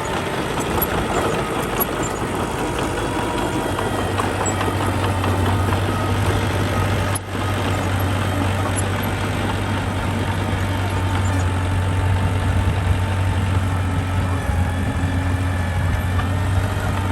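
Diesel engine of a construction machine running steadily with a low, even drone, with a brief break about seven seconds in.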